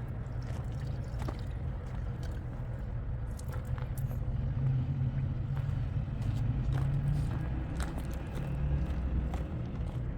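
Motor vehicle running with a steady low rumble, with scattered light clicks and knocks over it.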